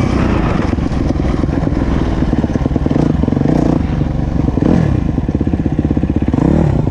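Motocross dirt bike engine running hard under throttle, revving up and down with the throttle, with the pitch sweeping up and back down about halfway through and again near the end.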